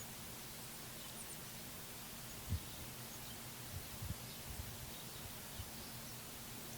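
Faint, distant songbird chirps, a few short calls, over a steady outdoor hiss and a low hum. Several brief soft low thumps come through as well, the loudest about two and a half seconds in.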